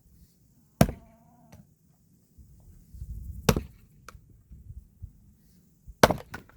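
Firewood being split by hand: three sharp chopping blows, about two and a half seconds apart. A brief wavering squeak follows the first blow.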